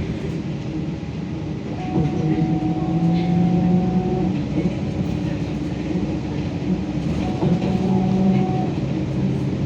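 BKM-32102 trolleybus driving, heard from inside the passenger cabin: a steady hum from the electric traction drive, with tones that swell and shift in pitch a couple of times, over a constant rumble of road and body noise.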